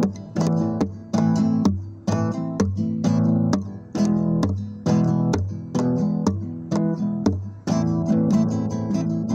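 Acoustic guitar music: chords strummed or plucked in a steady rhythm, about two or three strokes a second.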